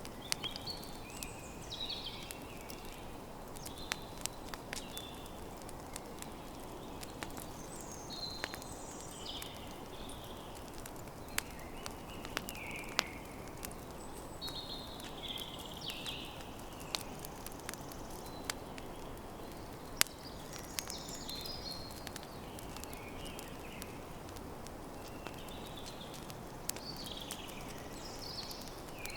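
Campfire crackling with frequent sharp pops over a low steady rush, while small birds sing short chirping phrases throughout.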